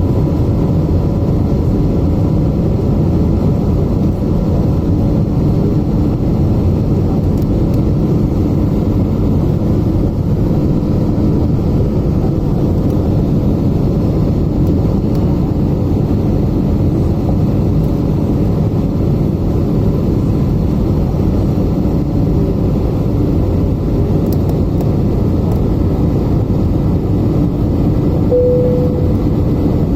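Steady cabin noise of an Airbus A320neo in flight: the drone of its Pratt & Whitney PW1100G geared turbofans and the rush of air, with a few low hums, and a brief single tone near the end.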